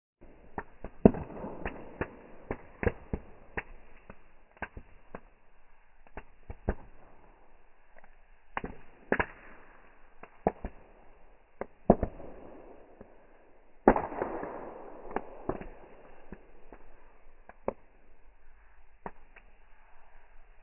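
Fireworks going off: irregular sharp cracks and bangs, the louder ones echoing briefly after each blast.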